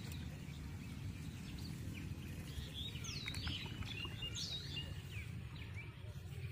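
Wild birds chirping and calling, with two clear swooping whistled calls about three and four and a half seconds in, over a steady low rumble.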